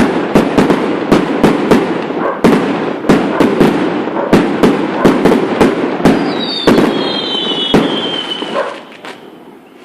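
A rapid barrage of aerial firework rockets going off in a 'lluvia de cohetes', about two to three sharp bangs a second over continuous crackling. A thin descending whistle sounds briefly past the middle. The barrage stops and dies away about nine seconds in.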